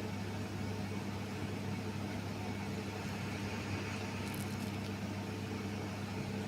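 Futon dryer's blower running with a steady hum, with a few faint high ticks about four and a half seconds in.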